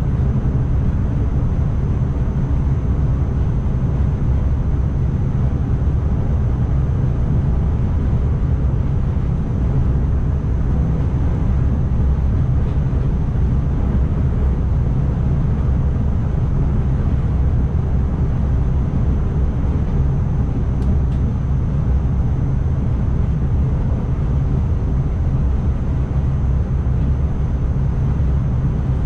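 NS ICMm (Koploper) electric multiple unit running along the line, heard from inside the driver's cab: a steady, loud low rumble with a faint thin high whine over it.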